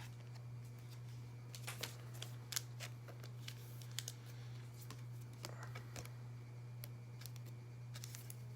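Trading cards being handled and flipped through by hand: scattered light clicks and flicks of card stock, over a steady low hum.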